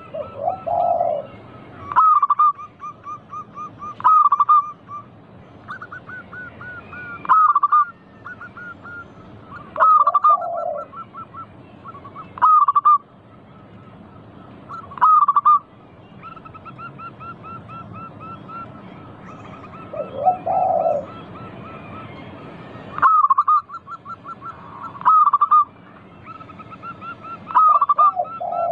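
Zebra doves (perkutut) singing: each phrase is a run of quick rolling notes ending in loud coos, repeated every two to three seconds, with a second, lower-pitched bird calling in between.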